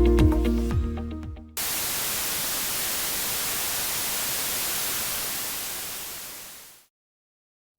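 Music fading out, then an even hiss of white-noise static that starts abruptly about a second and a half in, fades away about a second before the end and gives way to silence.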